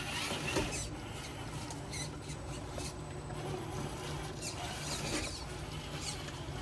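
Traxxas TRX-4 RC crawler's electric motor and gear train whining in short throttle bursts, the whine rising and falling in pitch several times as the truck is worked over rocks. A steady low hum runs underneath.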